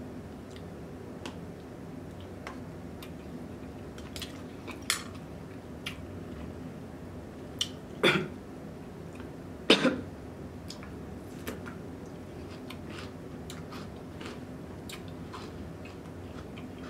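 Close-up eating sounds: chewing with small wet clicks and smacks. A short cough comes about eight seconds in, with another sharp mouth sound near ten seconds.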